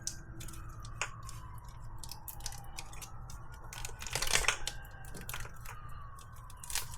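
Hand handling noises from work on a car wiring harness: scattered small clicks and rustles, with a brief louder tearing rasp about four seconds in.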